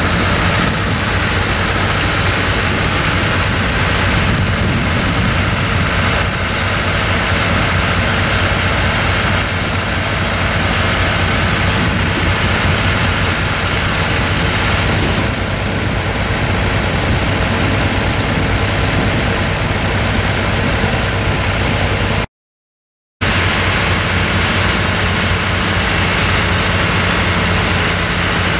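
Tractor engine running steadily, with a total break in the sound for under a second near the end.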